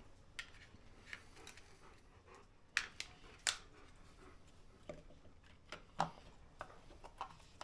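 Irregular small clicks and taps of a Blink outdoor security camera being opened, its batteries swapped and its plastic cover refitted. They come about ten times, the sharpest about three seconds and six seconds in.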